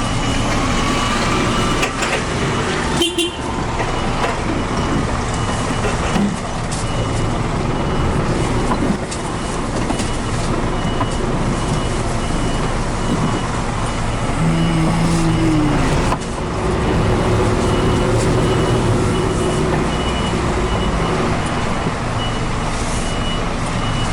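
Lorry engine running while the truck reverses in a tight yard, its reversing alarm sounding a long run of regular high beeps. A short knock comes about three seconds in.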